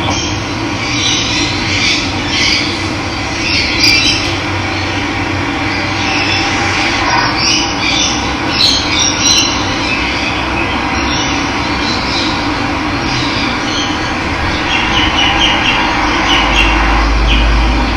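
Steady rush of running water with birds chirping and calling over it. A low rumble comes in near the end.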